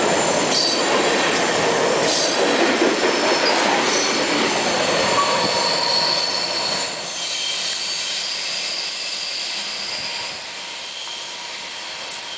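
Covered hopper cars of a CSX freight train rolling past on the rails, with rumbling wheel noise and thin, steady high-pitched wheel squeal. The sound drops about halfway through as the last car passes, then fades further as the train moves away.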